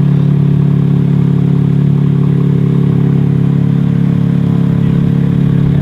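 Engine idling steadily and loudly, a constant low hum.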